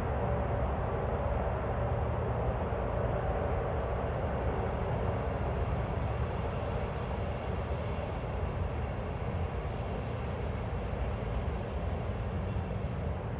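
Norfolk Southern freight train rolling past, a steady low rumble with no horn.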